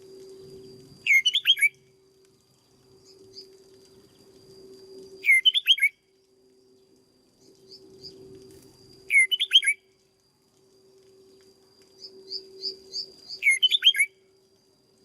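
Red-whiskered bulbul singing short, sweeping song phrases, four of them about four seconds apart, with a quick run of chirps just before the last. A faint steady high tone and low hum run underneath.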